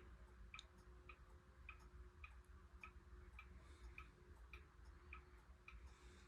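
Faint, steady ticking of mechanical clocks, about two ticks a second, over a faint steady hum from an SMC A52 ceiling fan running on low.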